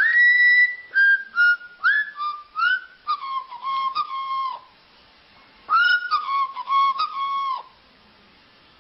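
A whistled tune in two phrases of short notes, each note sliding up into pitch and the run stepping downward, with a pause of about a second in the middle.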